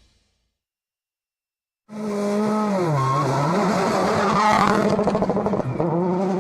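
Mitsubishi Lancer WRC05 rally car's turbocharged four-cylinder engine running at high revs, cutting in suddenly after about two seconds of silence. The revs drop and climb back twice, once about a second after it starts and again near the end.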